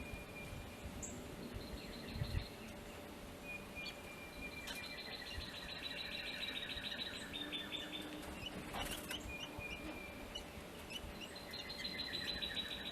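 Songbirds singing: a rapid trill of quickly repeated notes, heard twice, about five seconds in and again near the end, with thin high whistled notes between.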